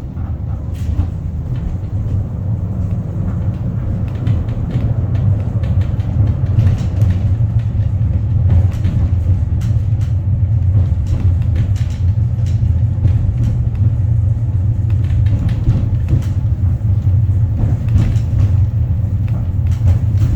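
Wellington Cable Car funicular running along its track: a steady low rumble with scattered light clicks and knocks.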